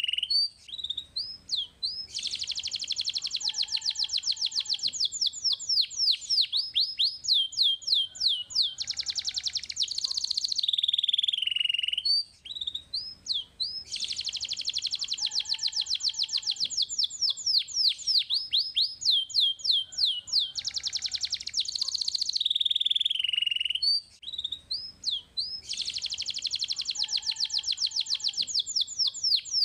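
Domestic canary singing: long, fast trills and rolls of rapid falling high notes, broken by short pauses. The same song phrase repeats about every twelve seconds, as a looped recording.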